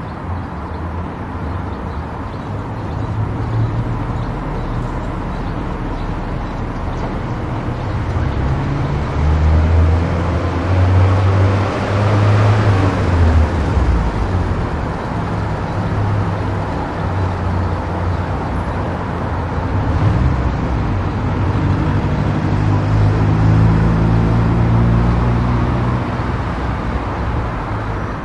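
Car driving on an expressway: steady engine and tyre rumble with road hiss, growing louder about halfway through and easing off again.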